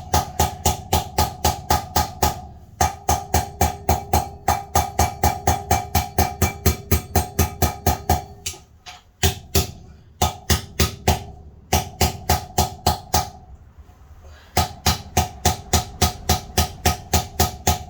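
Rapid hammer blows on metal, about four or five a second in runs broken by short pauses, each ringing briefly: a rear wheel bearing being driven into a Beta 300RR hub by striking its outer race, moving round the race so as not to pound one spot.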